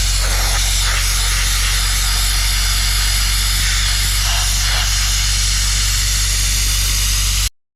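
Abrasive blasting: a loud, steady hiss of the blast nozzle over the low, even hum of the compressor engine. It cuts off abruptly near the end.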